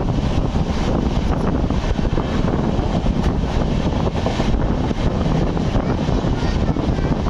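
Wind rushing over the microphone at the open window of a moving passenger coach, over the steady running noise of the train's wheels on the track.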